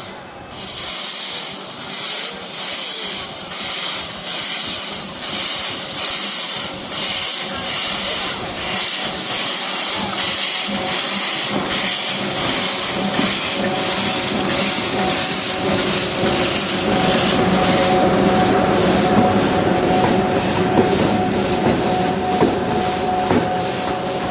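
Small steam locomotive chuffing, its exhaust puffing in a steady rhythm about every two-thirds of a second. From about halfway the puffs blur into a continuous hiss, with a steady whine as an EF63 electric locomotive rolls past.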